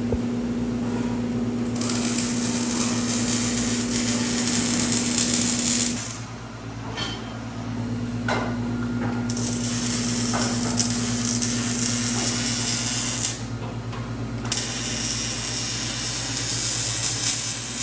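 Exhaust pipe being arc-welded for a muffler delete: three stretches of loud welding hiss, the first about two seconds in, the others later on, with short pauses and a few clicks between them. A steady electrical hum runs underneath.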